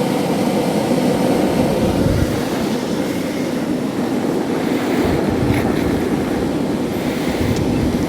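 A coke forge's electric blower fan running with the slide valve opened for more air: a steady rushing noise of air forced up through the tuyere into the burning paper and kindling.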